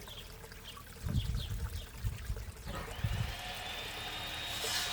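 Pond water trickling, with a few low bumps early on. About three seconds in, a distant power tool from the neighbours' roofing work spins up and holds a steady high whine.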